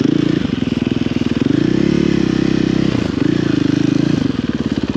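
Snow bike engine (a dirt bike fitted with a snow-tracked tunnel kit) running under throttle, revving up and easing off in swells: it rises about a second and a half in, drops near three seconds, then rises again.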